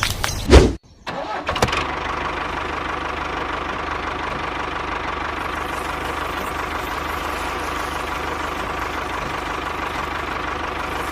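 A loud knock right at the start, then an engine starts about a second in and settles into a steady idle with an even low pulse.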